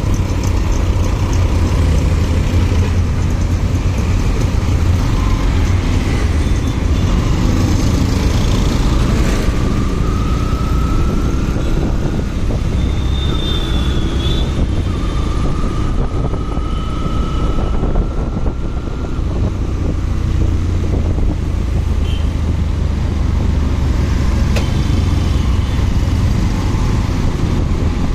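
Motorcycle riding in traffic: a steady low engine rumble mixed with road and wind noise, with two rising whines of a vehicle speeding up, about ten and fifteen seconds in.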